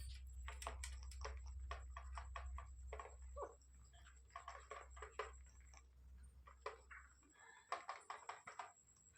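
Pet parrot making a quick, faint series of clicks and short soft chirps, a few a second, with a low hum underneath that cuts off about seven seconds in.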